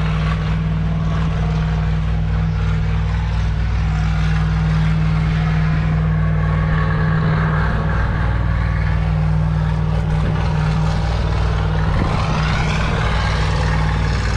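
1970 Ford 4000's 3.3-litre three-cylinder diesel engine running steadily. A rising whine comes in near the end.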